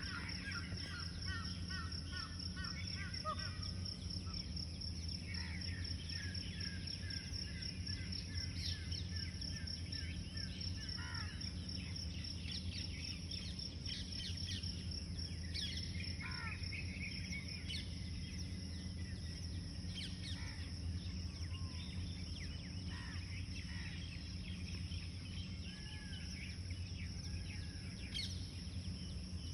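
Several birds chirping and calling at intervals, short whistles and falling notes, over a steady high pulsing trill of insects and a low steady hum.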